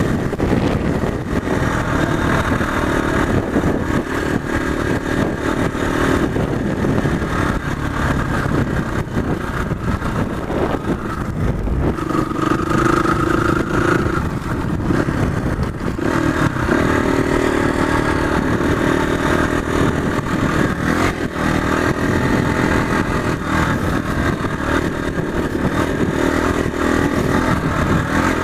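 Motorcycle engine running steadily while riding, its engine note shifting in pitch now and then with the throttle.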